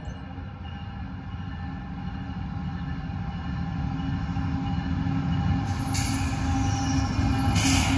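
Norfolk Southern diesel locomotive hauling a loaded coal train on approach: a steady engine note over the low rumble of the train, growing steadily louder as it nears. Brief hisses sound about six seconds in and again near the end.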